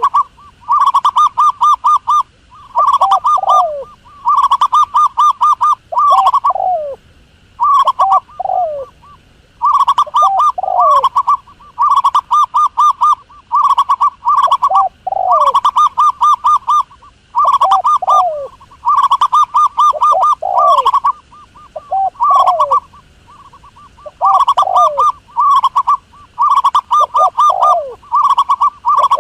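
Zebra doves calling: repeated bursts of rapid staccato cooing notes about a second long, alternating with short falling coos.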